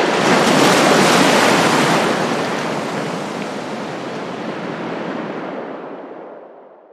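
Rush of ocean surf that starts abruptly, swells in the first second or so, then slowly fades out to silence.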